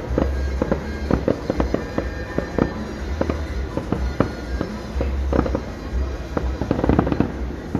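Fireworks going off in a rapid, irregular barrage: sharp bangs and crackles several times a second over a low rumble.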